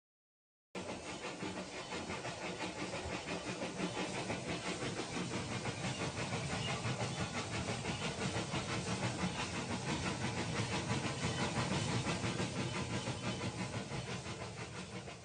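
Toy train running on plastic track: a steady clatter with a quick, even rhythm and a hissing edge, starting about a second in and easing off slightly near the end.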